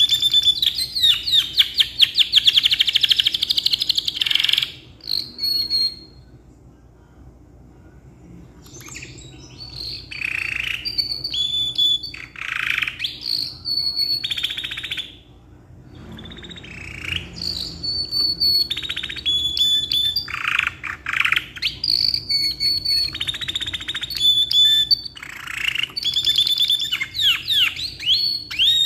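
Canary singing long phrases of rapid trills and clear whistled notes, broken by two short pauses.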